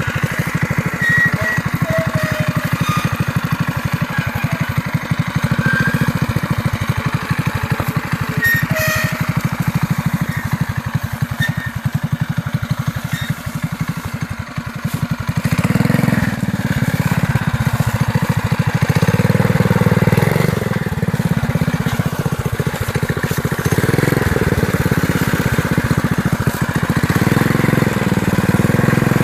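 Small engine of a 3x3 off-road mini bike running, getting louder about halfway through as it is revved, the pitch rising and falling as it pulls.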